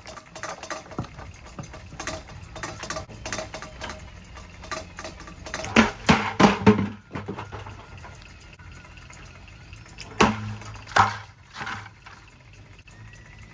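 Hard knocks and impacts as a ceiling fan is struck, with a quick cluster of blows about six to seven seconds in and two more near ten and eleven seconds, over a steady low hum.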